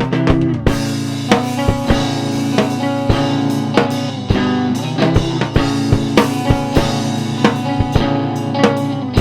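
Rock music without vocals: a drum kit with bass drum and snare keeping a steady beat under guitar and bass.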